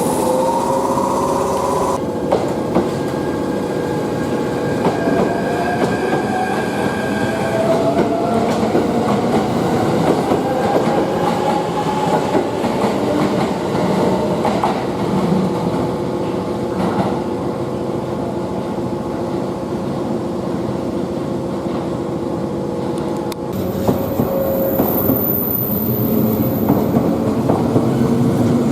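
A train moving along the station tracks, its wheels running on the rails with a steady tone and a slowly rising whine. The sound changes abruptly twice, about two seconds in and near the end.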